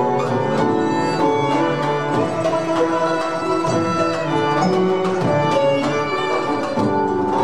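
Instrumental interlude of an ensemble between sung verses, with violins carrying the melody over other strings. No voice is heard.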